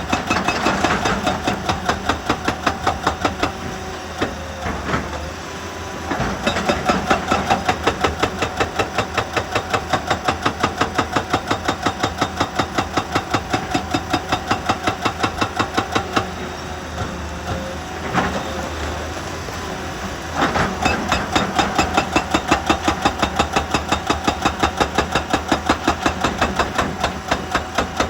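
Excavator-mounted hydraulic rock breaker hammering rock, about four sharp blows a second over the excavator's running diesel engine. The hammering stops twice, leaving the engine, then starts again.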